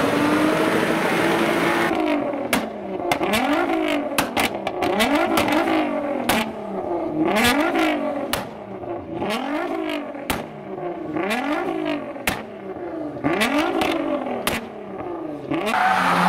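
For about two seconds, a car engine held at high revs with tyre noise during a smoky burnout. Then a Nissan R35 GT-R's twin-turbo V6 is revved in repeated blips, about one a second, each rising and falling in pitch, with sharp exhaust cracks and pops between them.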